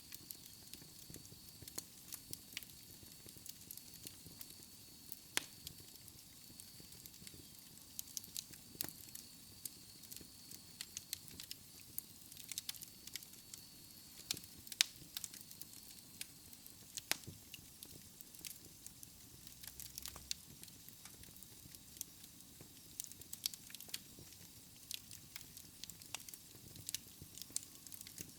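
Wood fire burning in a fireplace, crackling with irregular sharp pops over a low steady hiss. A faint thin high whistle runs under it for about the first half, then fades out.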